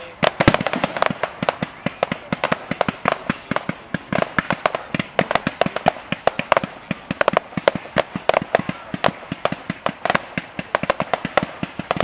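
Aerial fireworks bursting in a dense, irregular string of sharp cracks and bangs, several every second.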